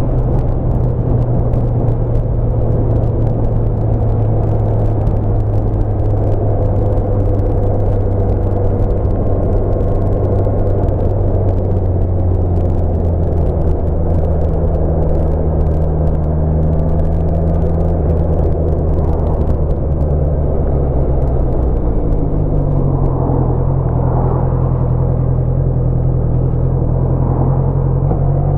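Honda CBR650F's inline-four engine running steadily at cruising revs in fifth gear, over a constant rush of wind and road noise. The engine note drops slightly about three-quarters of the way through as the bike eases off.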